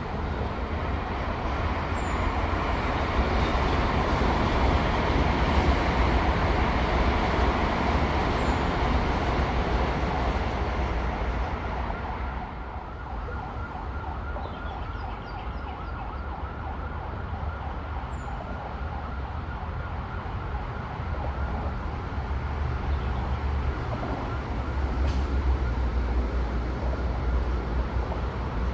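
High-speed electric train passing: a broad rushing noise with a steady whine swells over the first several seconds and falls away about twelve seconds in, then rises again near the end, over a constant low rumble.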